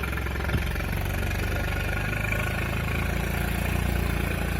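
Swaraj 742 tractor's diesel engine running steadily.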